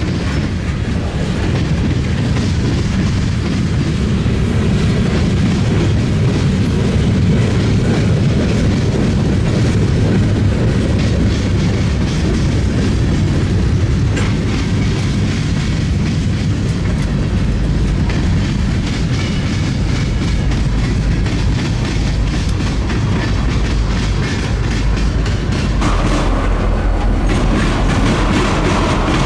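Freight train cars rolling steadily past, wheels clacking continuously on the rails over a loud rumble. Near the end a brighter, harsher rattle joins in.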